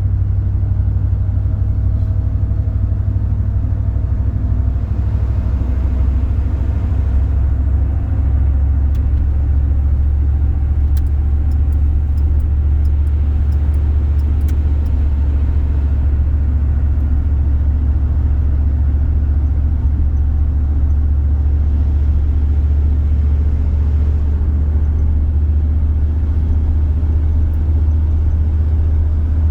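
Steady low rumble of a car being driven, engine and road noise heard from inside the car.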